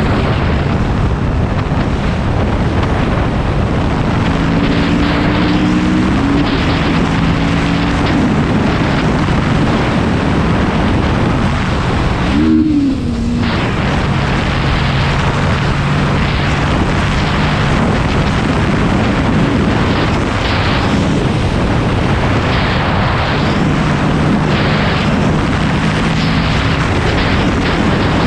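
Motorcycle under way with heavy wind rush over the microphone; the engine note holds steady pitches that shift a few times, and about halfway through it rises and falls quickly in a brief rev as the wind noise dips for a moment.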